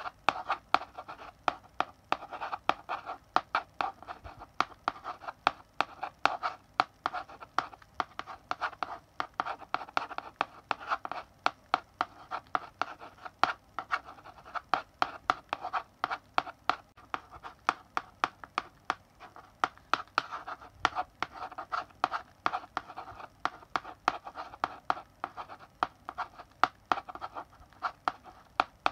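Chalk writing on a blackboard: quick irregular taps and short scratchy strokes as characters are written, several strokes a second with brief pauses between bursts.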